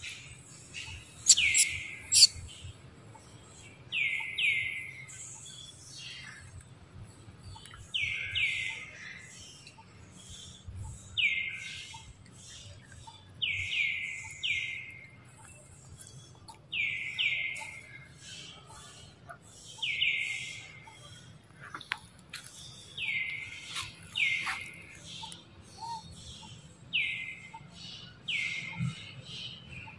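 A forest bird calling over and over: short whistles that fall in pitch, given in twos and threes about every three seconds. A couple of sharp clicks come near the start.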